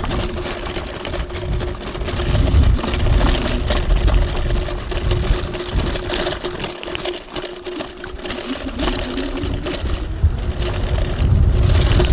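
TRBK-M2 electric hyperscooter's motor whining at a steady pitch while riding a rough dirt trail, with low rumbling and frequent small knocks and rattles from the bumps.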